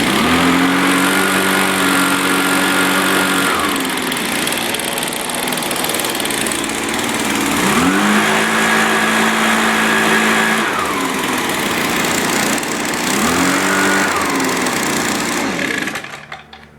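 Small Echo two-stroke engine running after a cold start and revved up three times, each rev held for a few seconds before dropping back to idle, then shut off near the end.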